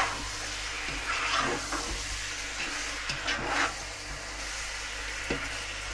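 Chicken and green beans sizzling in sauce in a nonstick wok while a slotted spatula stirs them, with a couple of louder stirring strokes about a second and a half and three and a half seconds in.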